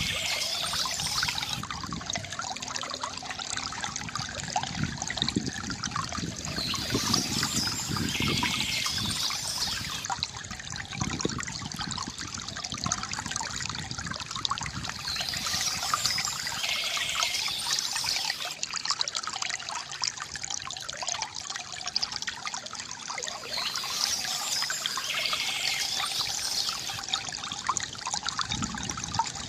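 Water trickling and gurgling steadily from a bamboo fountain. Birds chirp in short bouts that recur about every eight or nine seconds.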